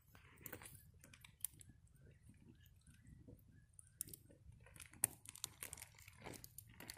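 Faint campfire crackling, with irregular sharp pops and snaps that come more often in the second half.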